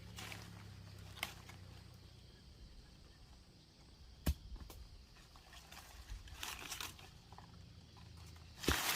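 Handling noises: light rustling and scattered clicks, with one sharp knock about four seconds in and louder rustling bursts later on and at the end.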